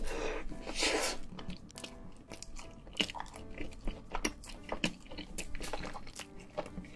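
A bite into a cheese-sauce-dipped burger, close-miked, then chewing with many small wet mouth clicks and smacks.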